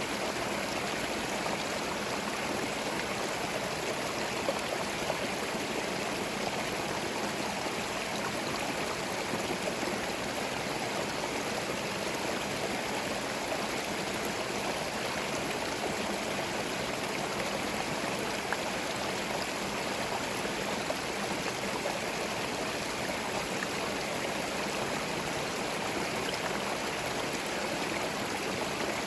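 Small forest stream flowing steadily over stones, a continuous babbling and gurgling with occasional small splashes.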